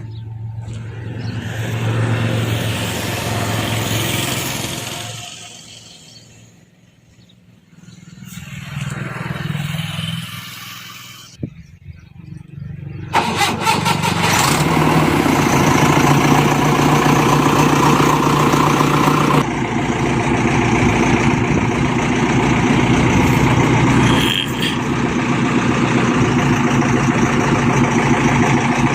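Diesel engines of a backhoe loader and a tractor working, swelling and fading twice, then running steady and loud from a little under halfway in, with a few sudden changes in level.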